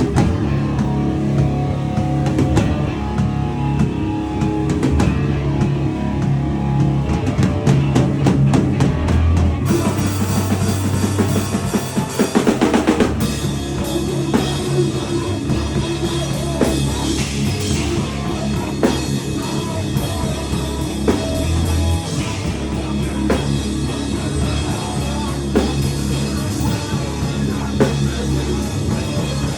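Powerviolence band playing live and loud: distorted guitar and bass over drums. About ten seconds in the full kit comes in with cymbals, and there is a fast drum fill a couple of seconds later.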